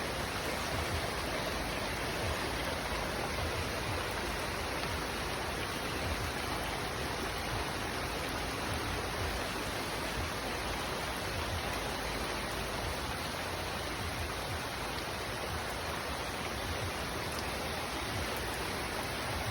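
Steady rush of water from heavy rain and flash-flood runoff: an even, unbroken hiss with a low rumble beneath.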